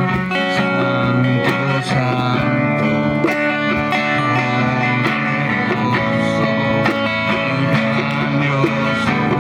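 Guitar strummed steadily, accompanying a worship song between sung lines.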